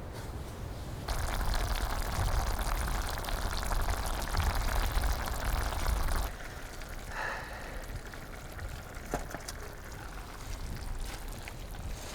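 A steady rush of water for about five seconds, starting about a second in and stopping suddenly; a few light clicks follow.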